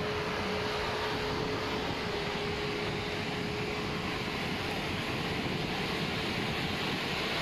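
Steady beach ambience: an even wash of surf and wind noise, with a distant engine drone that holds a steady pitch and fades out about halfway through.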